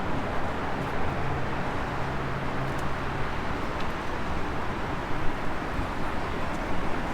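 Steady background noise with a car engine idling, its low hum clearest for the first few seconds.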